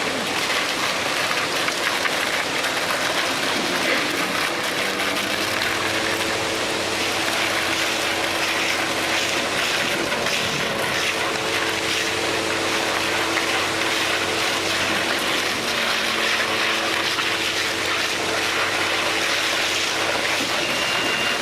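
Steady machinery noise: a constant rushing hiss with a low engine-like hum under it.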